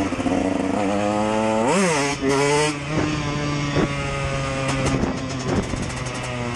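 KTM EXC dirt bike engine idling, blipped once about two seconds in with a quick rise and fall in revs, then settling back to a steady idle with a few sharp crackles near the end.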